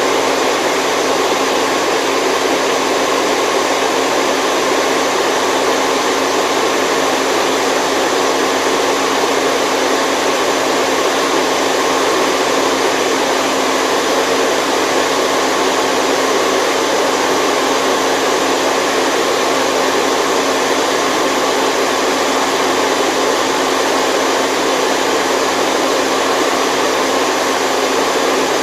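Steady, unbroken white noise for sleep, a constant whooshing hiss with no change in level.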